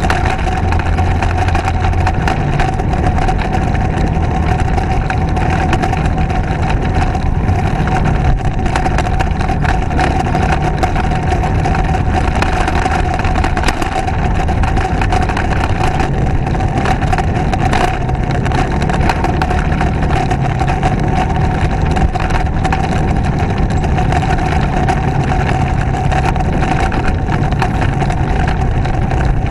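Motorcycle engine running steadily under way, its note rising and falling a little with the throttle, with heavy wind rush over the microphone and a steady high whine.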